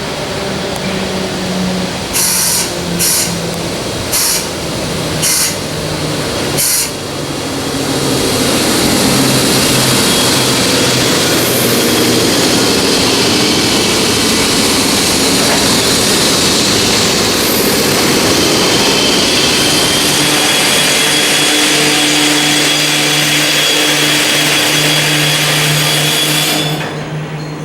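Cooling blower in the machinery room of an EF64 electric locomotive, heard at a standstill. Five short bursts of noise come first, then about eight seconds in the blower runs loud and steady with a low hum, and near the end it drops off sharply.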